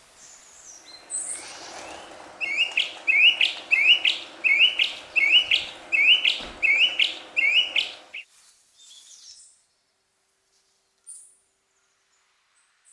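A songbird singing a run of about a dozen short, rising notes, about two a second, that stops suddenly about eight seconds in, followed by a few faint distant chirps.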